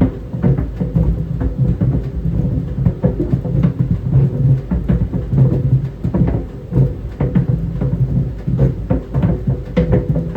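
Tennis balls tumbling in a running clothes dryer: a continuous, irregular run of soft thuds against the drum over the dryer's steady low hum.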